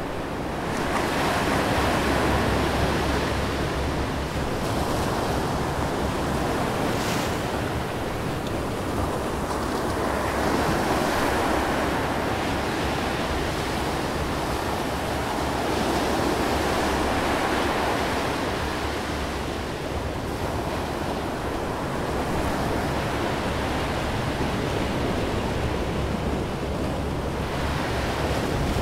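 Ocean surf and wind: a steady rushing wash of waves that swells and eases every few seconds.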